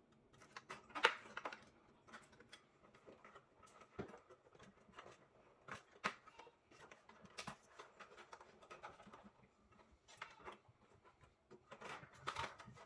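Scattered light clicks, taps and small knocks of desktop PC parts being handled and unfastened during a teardown.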